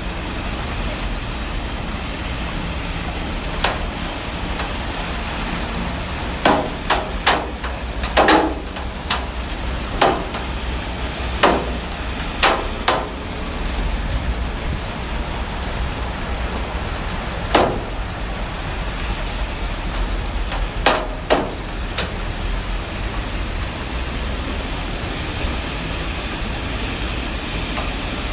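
Heavy rain falling steadily, with irregular sharp knocks scattered through it, most thickly between about six and thirteen seconds in and again around eighteen and twenty-one seconds.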